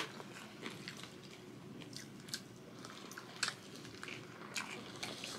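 Close-up eating sounds: quiet chewing and bites through rice wrapped in crisp Korean dried seaweed (gim), with scattered soft crackles and mouth clicks about a second apart.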